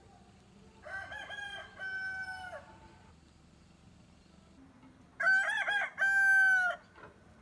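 Rooster crowing twice, each a drawn-out cock-a-doodle-doo; the first crow about a second in is fainter, the second, past the middle, is louder.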